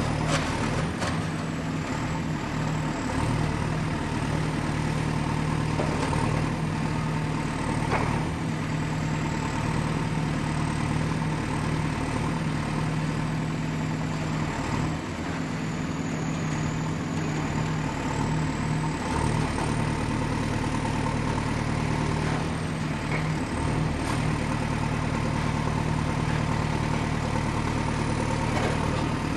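Excavator's diesel engine running steadily under work, with a thin high whine that wavers in pitch. A few sharp knocks and clanks come in the first seconds and again around six and eight seconds in.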